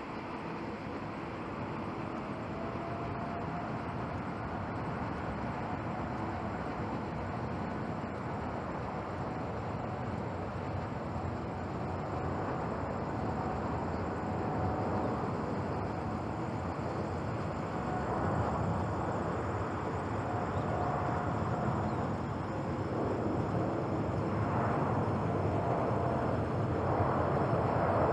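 Jet engines of a Boeing 787-10 Dreamliner on its take-off, a steady roar with a faint whine that grows gradually louder.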